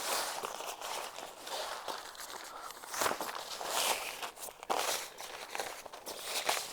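Rustling and crinkling of a deflated air sleeping mat's fabric as it is folded and handled, in irregular bursts with a few sharper scrapes.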